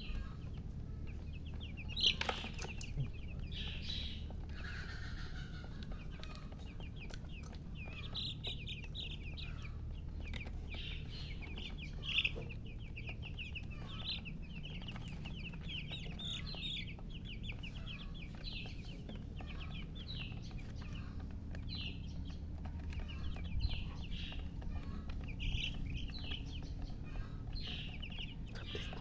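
A group of baby chicks peeping continuously, many short high calls overlapping, over a steady low hum.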